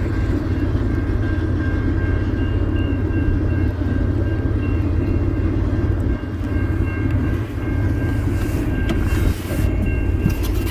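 Vehicle engine running steadily: a continuous low rumble with a faint steady whine above it.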